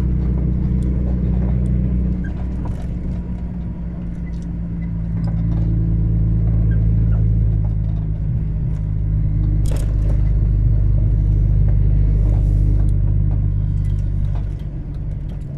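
Truck engine droning steadily, heard from inside the cab while driving. It grows louder for a stretch through the middle and eases off near the end, with a single sharp click about ten seconds in.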